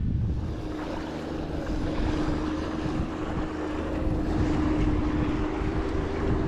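Wind buffeting the microphone over the river, a rough low rumble with a rushing hiss, with a steady hum running underneath.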